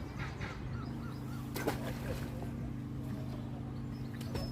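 A steady low mechanical hum, with small birds chirping faintly and a single sharp knock about one and a half seconds in.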